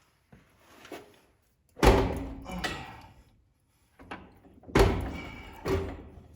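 Heavy metal thunks on a rusted old truck's steering column as it is knocked and worked loose: three loud knocks, each with a short ringing tail, and a few lighter knocks between them.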